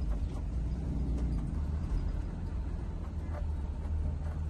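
School bus engine running with a steady low rumble.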